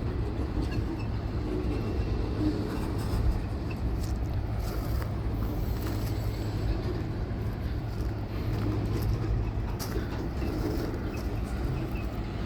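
Freight train rolling past at close range: a steady low rumble of wheels on rail.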